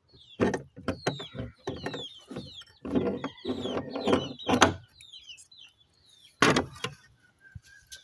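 Meat grinder crunching and squeaking as candy is forced through it: irregular crunches, many short squeaks falling in pitch, and one loud burst about six and a half seconds in.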